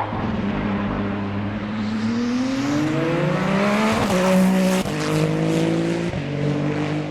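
Rally car engine accelerating hard, its pitch climbing and then dropping at each upshift, with shifts about four, five and six seconds in.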